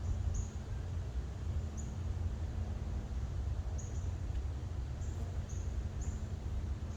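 A small bird giving short, high chirps every second or so in a forest, over a steady low rumble.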